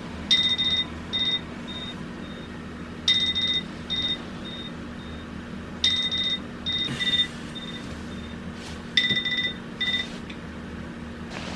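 Electronic alarm beeping: high two-tone beeps come in groups about every three seconds, each group a loud beep followed by a few quickly fading repeats, over a steady low hum.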